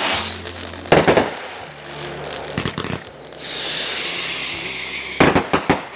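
Fireworks going off: a sharp bang about a second in, then a high whistle that falls slightly in pitch, followed near the end by a rapid cluster of bangs and crackles.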